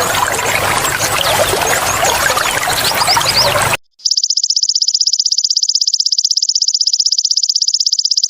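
Trickling water for nearly four seconds, then after a brief gap a belalang emas (golden grasshopper) starts calling: a fast, very even, high-pitched pulsing trill that keeps going.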